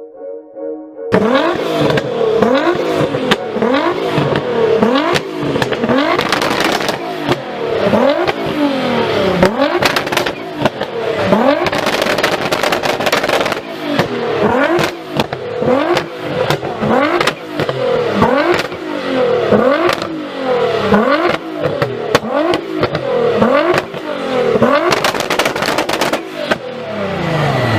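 A car engine revved hard through its exhaust again and again, starting about a second in: the pitch climbs and drops roughly once a second, with sharp cracks among the revs.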